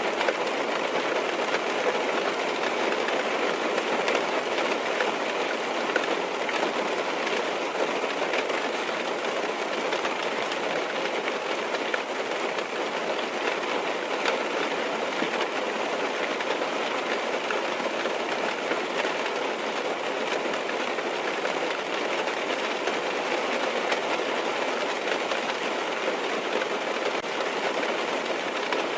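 Rain falling on a car's roof and windows, heard from inside the cabin: a steady hiss of many small drop hits with no change in strength.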